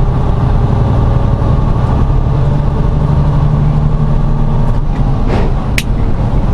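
Semi-truck diesel engine running steadily, with a low hum that rises slightly in pitch midway. A brief sharp click comes near the end.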